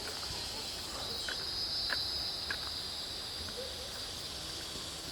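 Insects, crickets or cicadas, keeping up a steady high-pitched buzzing chorus, with a few faint clicks.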